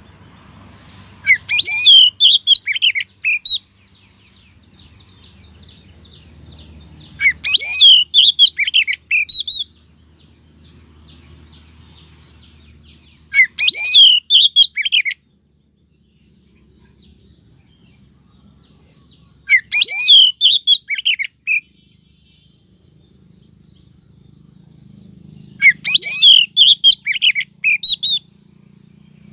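Female oriental magpie-robin calls: five bursts of quick, high twittering notes, each about two seconds long and about six seconds apart, with a faint low hum between them. This is the female 'sweetener' call used as a lure to draw in males.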